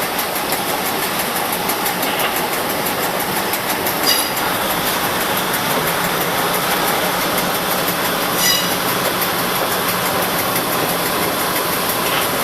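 Test train running at moderate speed, with a steady rumble and rush of wheels on the rails. Two brief high squeaks come about 4 and 8.5 seconds in.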